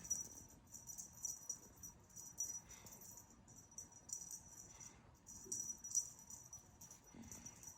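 A small cat toy rattling and jingling in quick, irregular shakes, high and thin, as it is moved about in play.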